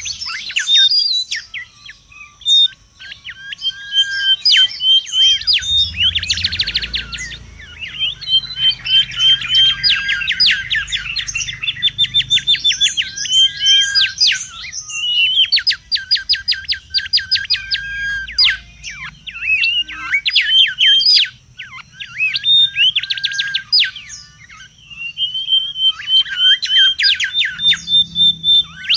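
Mangrove whistler singing and chattering loudly: fast trills of sharp repeated notes mixed with short whistled tones, in phrases broken by brief pauses.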